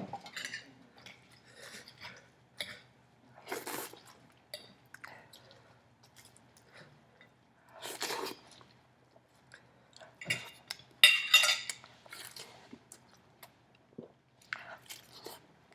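A man chewing and biting through an omelette and turkey bacon as fast as he can, in irregular bursts of wet mouth sounds and crunches, with the loudest burst about eleven seconds in.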